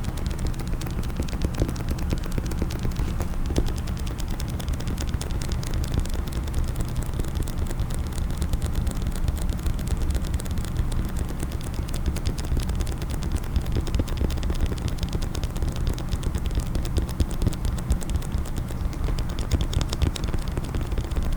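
Rapid, continuous tapping and clicking on a case, the many quick taps running together like typing, over a steady low rumble of handling.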